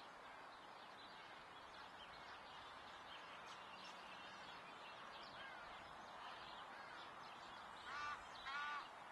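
Faint outdoor ambience with scattered small bird chirps, then two louder bird calls about half a second apart near the end.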